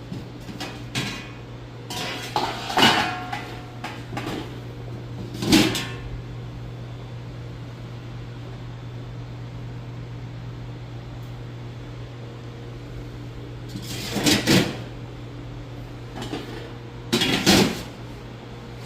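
Steady low hum of a running Woosung commercial refrigerator, with several bursts of clattering and knocking as its parts are handled during a repair.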